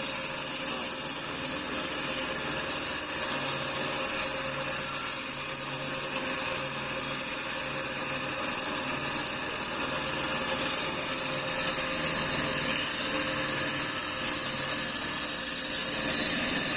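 Band sawmill at work, its blade running with a steady, loud high-pitched hiss over the low, even hum of its motor.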